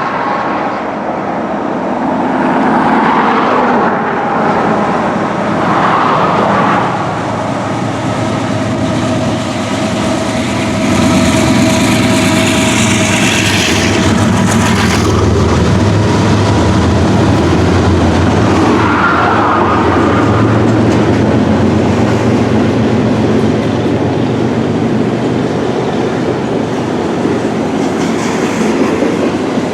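Norfolk Southern freight train running on the line, a steady low rumble with a few brief higher tones over it.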